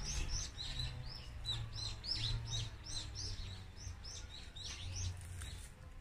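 A small songbird singing a rapid series of short, high chirps, about four a second, that stops shortly before the end, over a low rumble.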